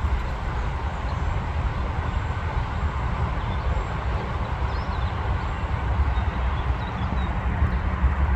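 Freight train running past, a steady low rumble with no horn.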